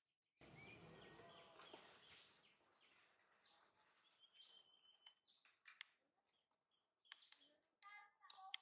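Faint outdoor ambience with birds chirping and calling, scattered short chirps over a low hiss, a thin steady whistle of about a second near the middle, and a quick cluster of calls near the end.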